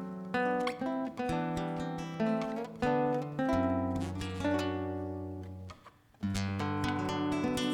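Acoustic guitar playing an instrumental passage of plucked notes over held bass notes, with a brief pause about six seconds in.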